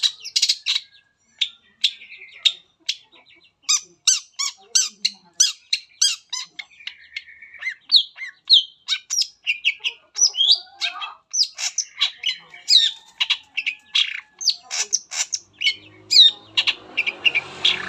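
Long-tailed shrike (cendet) singing a fast, varied song of short chirps, harsh squawks and quick whistled glides, the medley of borrowed calls that bird keepers call 'materi'. A faint rushing noise comes in underneath near the end.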